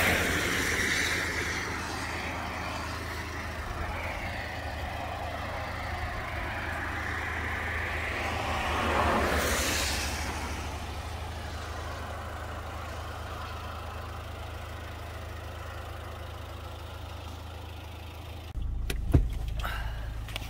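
Steady low hum of an idling car engine, with vehicles passing on the road, one right at the start and another about nine seconds in, each swelling and fading. A sharp knock near the end.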